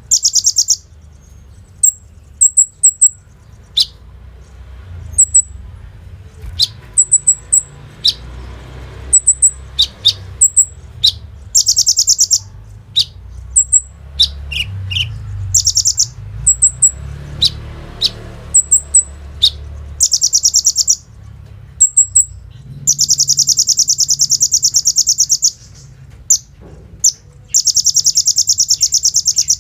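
A kolibri ninja sunbird singing. It gives very fast, high, rattling trills, the machine-gun-like 'bren' notes, each one to two and a half seconds long. Between them come short, sharp, high chips, and the longest trill is about two-thirds of the way through.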